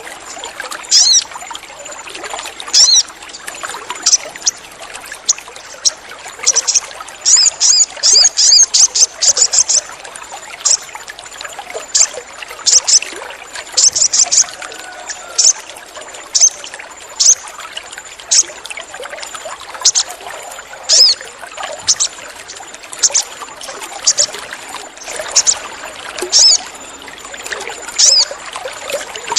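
Crimson sunbird (sogon) giving short, sharp, high chirps about once a second, with a fast chattering run of chirps about seven to ten seconds in, over a steady trickle of water.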